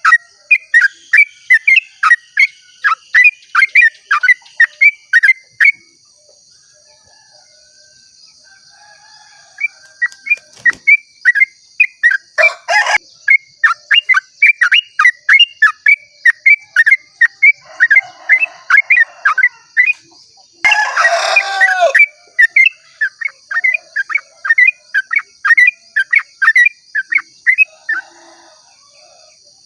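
Yellow-vented bulbul (trucukan) singing its long rapid 'ropel' song: quick runs of sharp, evenly repeated notes, about four a second, with a pause of a few seconds early on. A steady high insect-like hiss runs underneath, and a louder harsh call breaks in twice, briefly.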